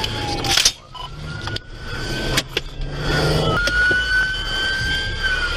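Emergency vehicle siren wailing slowly: its pitch falls, then rises and holds, over a running vehicle engine, with a few sharp knocks.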